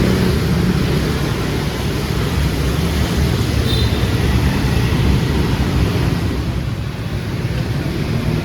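Busy road traffic of motorbikes and cars running close by, a steady loud rumble with wind buffeting the microphone. A short high beep sounds about four seconds in.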